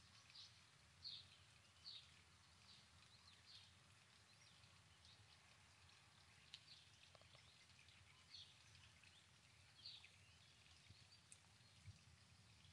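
Near silence outdoors, with a bird chirping faintly: short high calls about once a second at first, then more sparsely.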